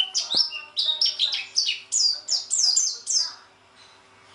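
Caged pleci (white-eye) singing a fast run of short, falling chirps, several a second, that stops about three and a half seconds in. A single sharp click sounds near the start.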